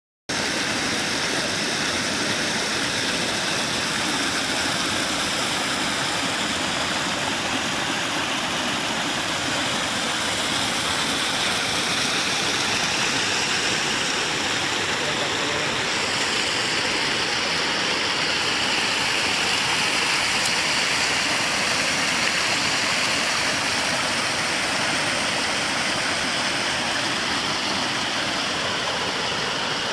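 Waterfall: water pouring in a steady, dense rush. The hiss turns slightly duller about halfway through.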